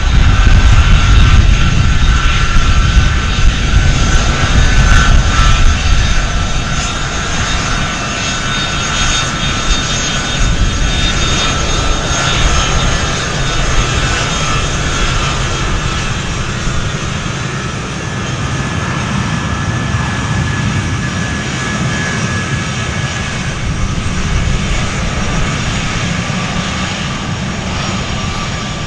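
Jet aircraft engines running at high power: a heavy low rumble under a steady high whine of several tones. It is loudest for the first six seconds or so, then eases to a steady, somewhat lower level.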